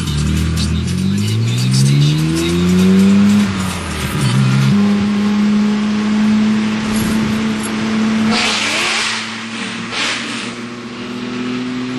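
Supercharged C5 Corvette V8 running under break-in: the engine's pitch rises over about three seconds, then holds at a steady speed, with a few short bursts of hiss near the end.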